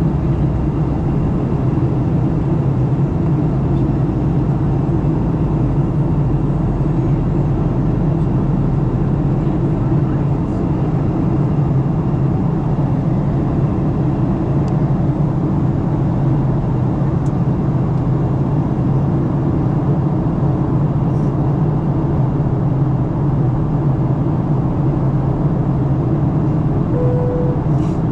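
Steady cabin noise of a Boeing 737-900 in flight on its approach descent: a constant rumble of the CFM56 engines and airflow heard from a window seat. A short single-pitched tone sounds near the end.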